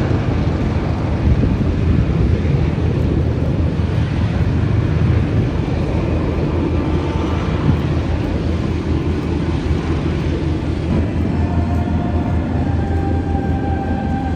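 Military helicopters flying a display pass overhead, a loud steady rumble of rotors and turbine engines. A faint whine joins in near the end.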